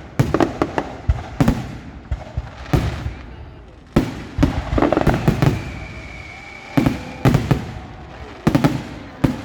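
Aerial fireworks exploding: a loud, irregular run of sharp bangs, often two or three in quick succession, each followed by a short rumbling echo.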